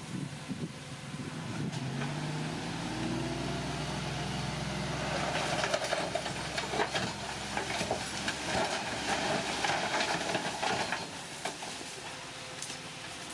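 Bulldozer at work: its diesel engine note rises a couple of seconds in, then a dense clatter and grinding of metal sets in about five seconds in and eases off near the end.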